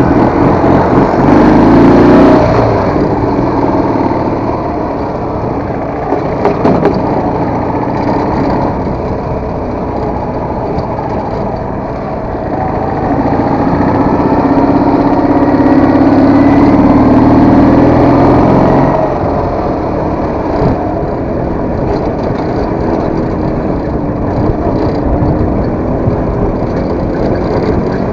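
Soviet motorcycle engine running while riding, revving up near the start and again for several seconds about halfway through, easing off in between, with a few short knocks.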